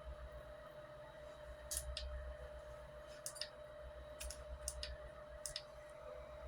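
About seven faint, irregularly spaced clicks over a steady low electrical hum and a faint steady tone.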